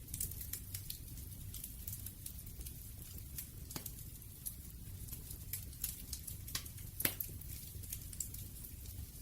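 Wood fire crackling, with a low steady rumble and irregular sharp pops and snaps, two louder pops a little before four seconds and at about seven seconds.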